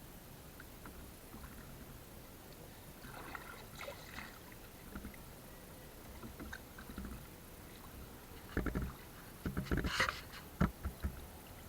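Water splashing and knocking around a small boat, with a cluster of louder thumps and splashes near the end.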